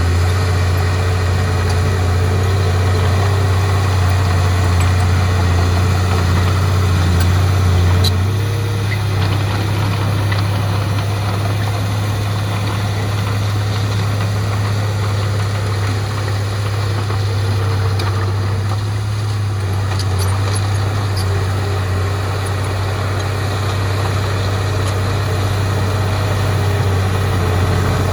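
Heavy diesel engine running steadily at a low, even note, which shifts slightly about eight seconds in.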